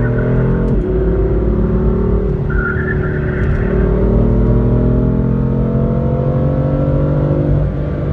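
Car engine at full throttle in a hard acceleration run. About a second in its pitch drops sharply with an upshift, then it climbs steadily in pitch as it pulls through the next gear, easing slightly near the end.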